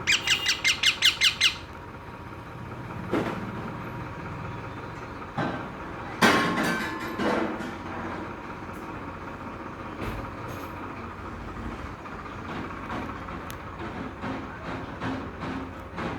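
Parrot calling: a quick run of about nine sharp, evenly spaced squawks in the first second and a half, then a few single louder squawks and softer clicks over a steady low rumble.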